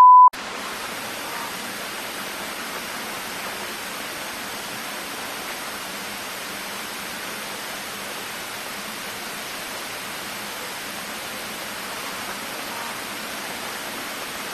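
A steady beep cut off just after the start, then a steady, even hiss of noise that starts suddenly and holds at one level throughout.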